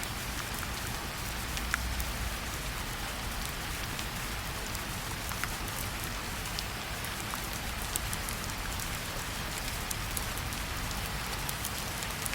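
Steady rainfall, with a constant hiss and scattered individual drops ticking on a hard surface.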